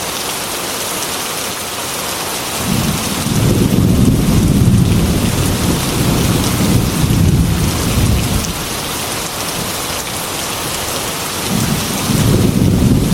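Heavy rain beating on a glass window with a steady hiss, while thunder rolls in about two and a half seconds in, rumbles for around six seconds and fades, and a second roll of thunder begins near the end.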